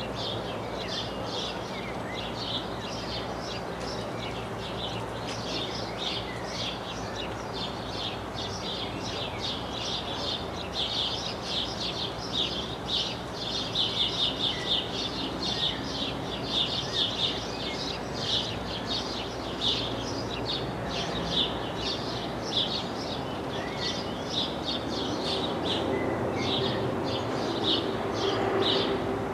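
Small birds chirping rapidly and continuously, busier and louder from about ten seconds in, over a steady low hum.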